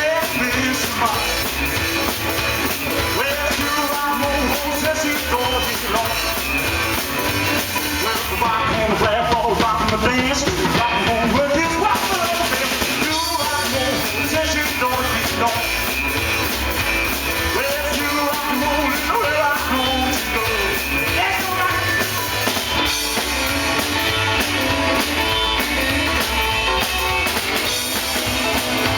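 A rockabilly band playing live, with a lead vocal over drums and guitar at a steady beat.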